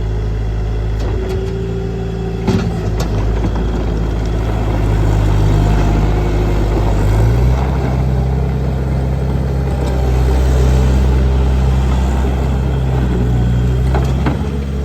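Bobcat T300 loader's diesel engine running steadily, its speed stepping up about halfway through, with a sharp knock a couple of seconds in.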